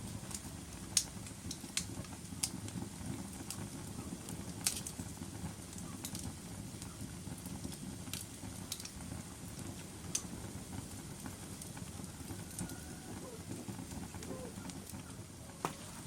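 Logs burning in a fireplace: a steady low rush of flame with sharp, irregular crackles and pops every second or so.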